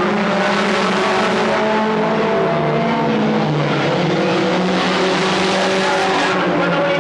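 Several stock car engines running together at speed, their overlapping engine notes steady and loud, shifting slightly in pitch as the cars go round the track.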